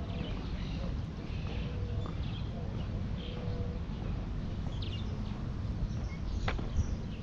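Outdoor park ambience: scattered bird chirps over a steady low rumble, with a single sharp click about six and a half seconds in.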